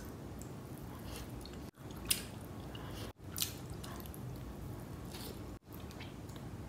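Eating sounds: chewing mouthfuls of biryani rice eaten by hand, with short wet mouth clicks scattered through. The sound drops out abruptly three times.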